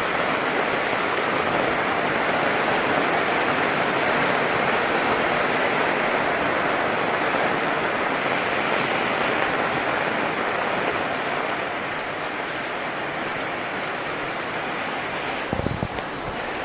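Heavy rain falling steadily, a dense even hiss. It eases a little about two-thirds of the way through, and a few short low thumps come near the end.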